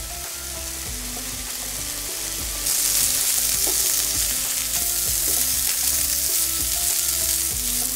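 Kofta meatballs and fried potato cubes sizzling in oil in a frying pan while a wooden spoon stirs them. The sizzle grows louder about three seconds in.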